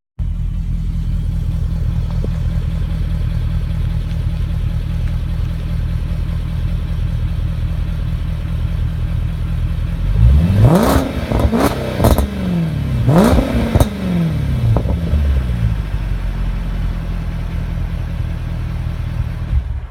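2011 Jaguar XJ Supersport's supercharged V8 idling through an X-pipe and Borla mufflers, then revved in a few quick throttle blips about halfway through, each climbing and falling back, before settling to a steady idle again.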